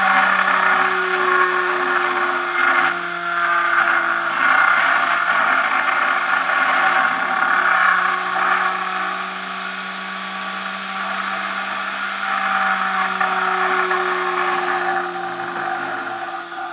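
High-speed generator rotor on a magnetic levitation bearing, spinning with a steady whine over a dense airy hiss. Its pitch sags slightly and recovers a few times, and the hiss eases a little near the end.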